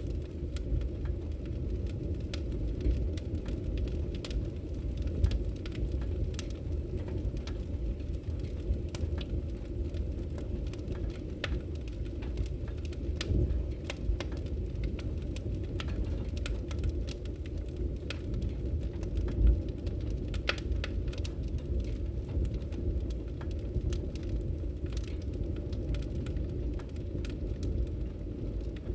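Wood fire crackling in a fireplace: a steady low rumble of burning with frequent small sharp pops and snaps scattered throughout, one louder pop a little past the middle.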